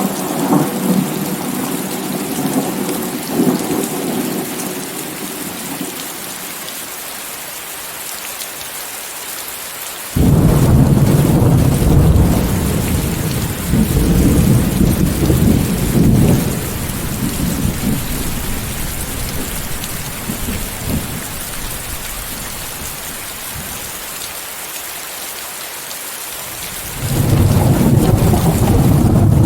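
Steady heavy rain hiss, layered with white noise, under rolling thunder. A rumble dies away over the first few seconds; about ten seconds in a loud thunderclap breaks in suddenly and rolls on for several seconds before fading, and another starts suddenly near the end.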